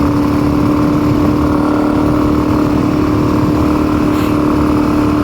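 Suzuki DR-Z single-cylinder motorcycle engine running at a steady speed while riding, an even drone with a steady hum over a rumbling low end. The bike has been losing power on hills, and the owner suspects it may be running a little rich.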